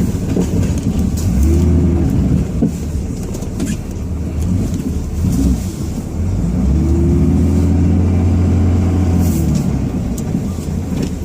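Dodge Ram 2500's 5.9-litre Cummins turbo-diesel, heard from inside the cab while plowing snow, running with a steady low rumble. It rises in pitch and level twice under throttle: briefly about a second in, and for a longer stretch from about six to nine seconds in.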